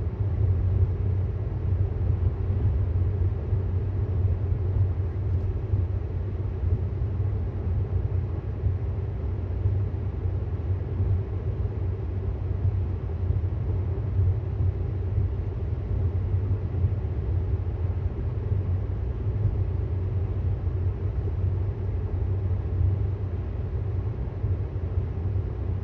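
Steady low road and tyre rumble inside the cabin of a moving 2018 Tesla Model S 75D, an electric car with no engine note.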